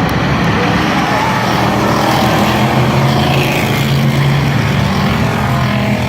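Stock car engines running at race speed on the track, a loud steady din of several engines at once with their pitch shifting.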